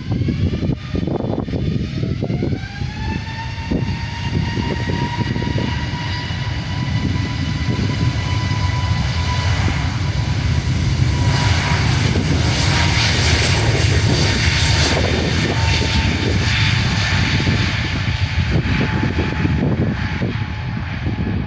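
Airbus A320neo jet engines spooling up: a whine rises over the first few seconds and then holds steady, over a rumbling roar that is loudest a little past the middle as the departing airliner passes.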